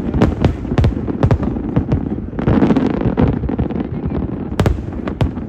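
Fireworks display: many sharp bangs of bursting aerial shells in quick, uneven succession, with a denser rushing stretch about two and a half seconds in.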